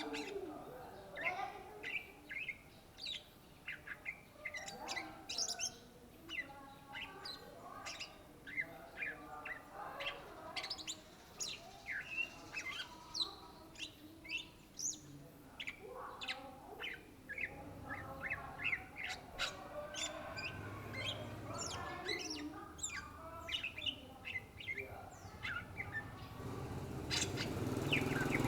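Greater green leafbird (Chloropsis sonnerati) singing: a fast, unbroken run of short chirps and quick sweeping whistles. A low rumble comes in about two-thirds of the way through and grows louder near the end.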